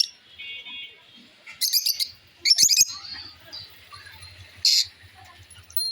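Small pet parrots, lovebirds and budgerigars, giving three short bursts of shrill, warbling chirps, the third a few seconds after the first two.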